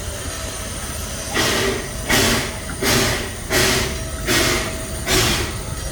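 Puffing Billy narrow-gauge steam locomotive pulling away from a standstill, its exhaust chuffing in loud, even beats about once every three-quarters of a second, starting about a second and a half in.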